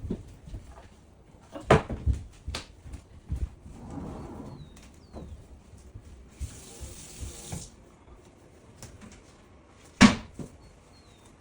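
Water running briefly for about a second in the middle, among scattered sharp knocks and clicks of things being handled, the loudest knock about ten seconds in.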